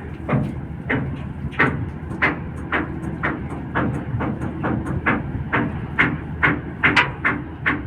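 Rhythmic mechanical clacking, about two sharp knocks a second, over a steady low hum.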